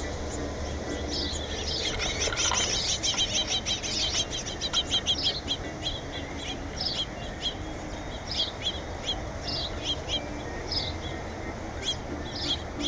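Small birds chirping: a quick, dense run of high chirps in the first half, then single chirps about once a second.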